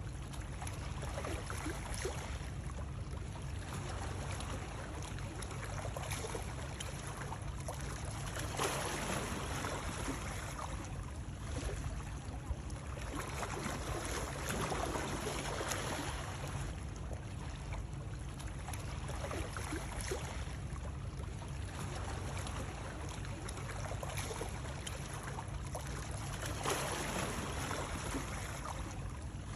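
Continuous water sound used as white noise: a steady low rumble under a washing hiss that swells and fades every two to three seconds.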